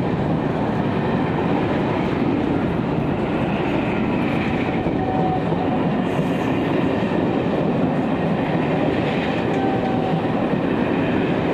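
Loco-hauled passenger coaches rolling past close by at speed as the train pulls away, a steady noise of steel wheels running on the rails.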